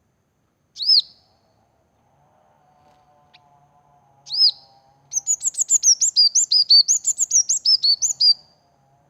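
Sunbird calling: a single sharp high chirp, a second one a few seconds later, then a fast run of about six sharp chirps a second alternating between two pitches, lasting about three seconds.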